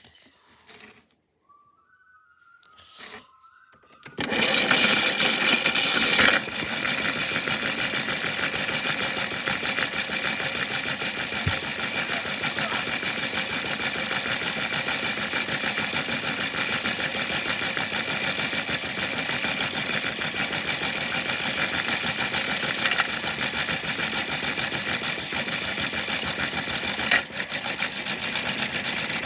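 Washing machine starting up and running: a steady mechanical noise begins about four seconds in, louder for its first two seconds, then runs on evenly.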